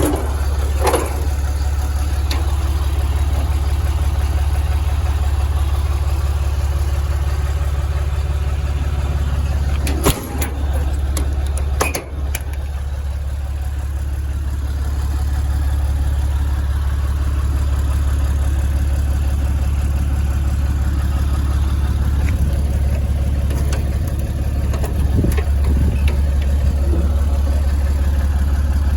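6.7L Cummins diesel engine idling steadily, with a couple of sharp clacks about ten and twelve seconds in.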